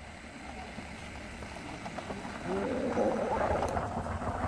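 Heavy vehicle engine running on the road with traffic noise, growing louder about halfway through, with voices faintly mixed in.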